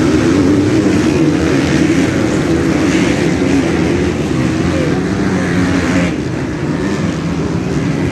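Several motocross bike engines running and revving together, a dense layered engine noise that wavers in pitch and eases slightly about six seconds in.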